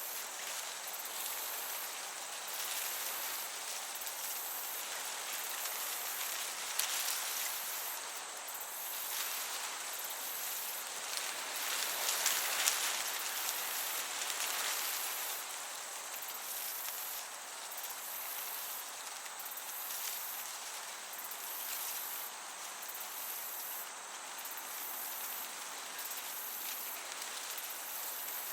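Crickets chirping in a very high, evenly pulsing trill over a steady hiss of breeze in a summer meadow.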